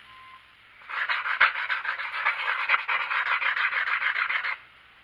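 A steel T nut being rubbed back and forth on wet-and-dry abrasive paper laid on a sheet of glass, a rapid rasping scrub. It starts about a second in and stops abruptly near the end.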